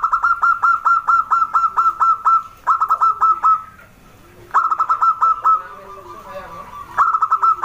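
Zebra dove (perkutut) calling: rapid trains of short, clipped notes, about six or seven a second. A long run of about two seconds comes first, then three shorter runs, with pauses in between.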